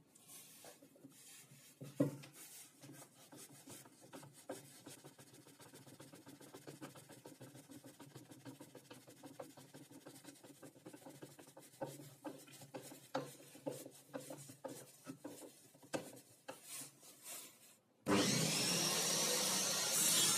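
Faint, irregular rubbing and scraping on wood, with scattered light knocks and one sharper knock about two seconds in. Near the end a much louder steady sound cuts in abruptly.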